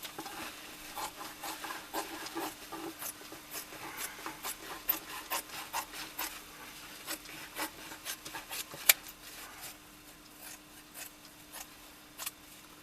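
A blade cutting out a new insole from sheet insole material along a pen outline: irregular scraping strokes and small clicks, with one sharp click about nine seconds in.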